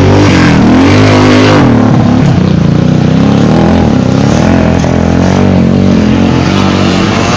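Motocross bike engines revving loudly, rising and falling in pitch as the bikes accelerate and shift, with more than one engine heard at once.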